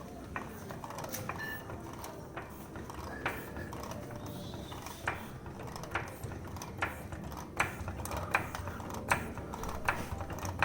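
Repeated short, sharp mechanical clicks from lifting gear being worked to raise a car body, falling into a regular beat of about one click every 0.8 s in the second half, over a low steady rumble.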